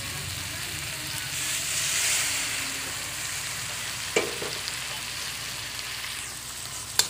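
A saucy stir-fry sizzling in a hot metal wok while a metal spatula turns it; the sizzle swells about two seconds in, and the spatula knocks against the pan once near the middle and again at the very end.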